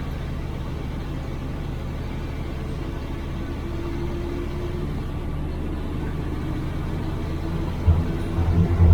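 IFA L60 truck's six-cylinder diesel engine running steadily, heard from inside the cab. It grows louder about eight seconds in.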